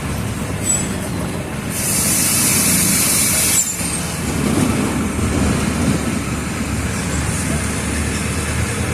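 Mercedes-Benz OF 1722M city bus's diesel engine running with a steady low rumble. About two seconds in, the bus's compressed-air system lets out a loud hiss that lasts about two seconds and cuts off sharply.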